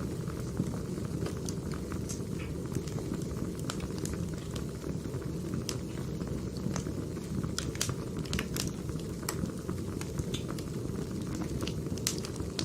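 Crackling log fire: a steady low rush of flames with irregular sharp pops and crackles from the burning firewood.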